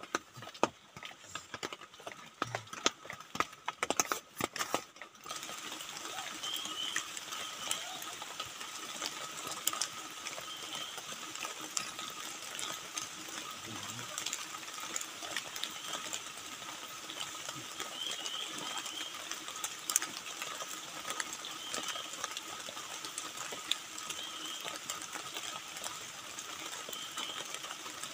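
Steady rain falling on a forest campsite, with short chirps every few seconds over it. The first five seconds hold only scattered sharp clicks and knocks, and then the rain comes in suddenly.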